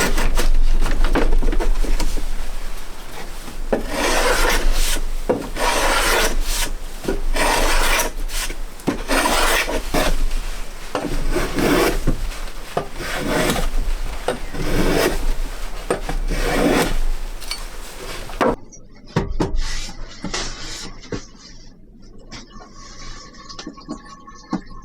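Wood being rubbed back and forth with a hand tool in repeated strokes, about one a second, that stop about three-quarters of the way through.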